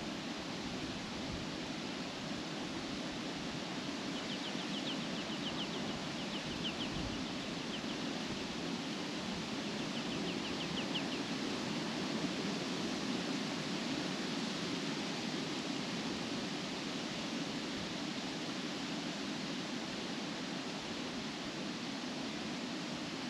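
Steady wind rustling through tree leaves. A small bird gives a faint rapid trill twice, about four and ten seconds in.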